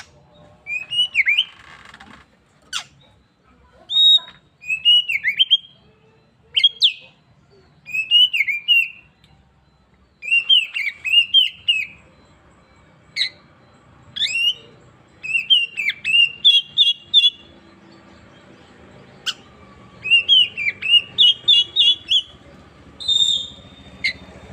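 Oriental magpie-robin (kacer) singing: short whistled phrases that rise and fall, repeated every second or two, with quick runs of clear notes in the second half.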